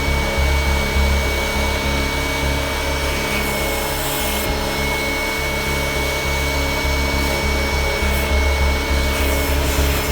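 Powered interior-cleaning tool running steadily against carpet or upholstery: an even motor whine with a continuous scrubbing, rubbing noise.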